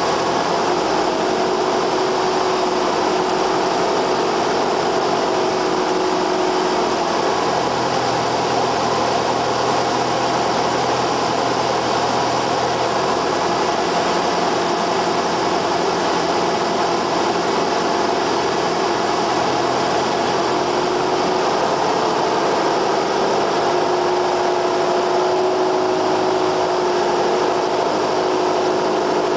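Cessna 172R's four-cylinder Lycoming piston engine and propeller running steadily, heard as a constant drone inside the cockpit, with a slight shift in its tone about seven seconds in and again about twenty seconds in.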